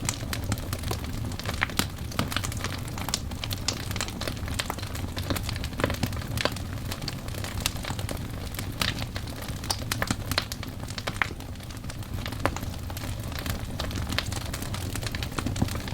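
Wood fire burning, with logs crackling and popping in a quick irregular patter of sharp snaps over a steady low rumble of the flames.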